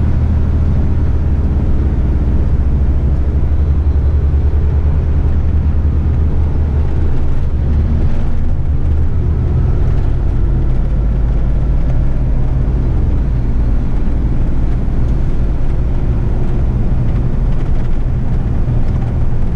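Diesel engine of an 8-wheeler twin-steer rigid truck under way, a steady low drone heard from inside the cab. The engine note shifts about eight seconds in.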